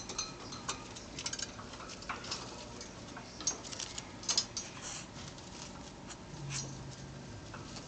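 Irregular light clicks and taps from a pet bird pecking at a toy worm, with the sharpest taps about three and a half and four and a half seconds in.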